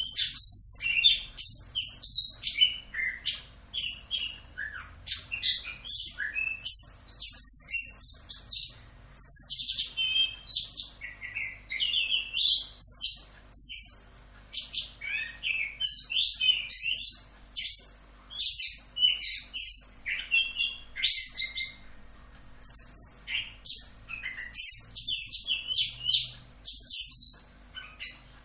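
Orange-headed thrush (anis kembang) singing a continuous rolling song: rapid, varied high whistled phrases and chirps following one another with hardly a pause.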